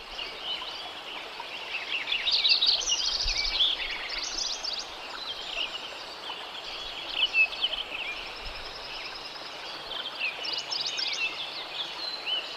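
Dawn chorus of many birds singing and calling at once over the steady rush of a mountain stream.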